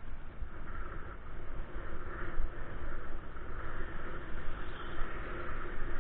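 Steady wind and road noise on a bike-mounted microphone during a ride, with a constant low rumble and a faint steady hum.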